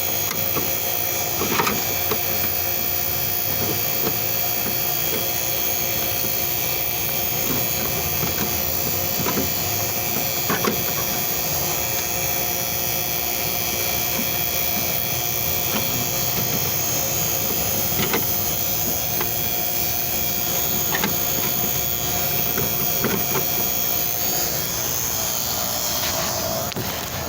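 Vacuum pump running steadily as it evacuates the refrigeration system after a compressor replacement, with a few light clicks from handling near it.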